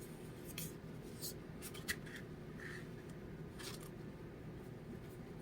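Paper pages of a small guidebook being handled and turned, a few short, soft rustles and scrapes against a low steady background.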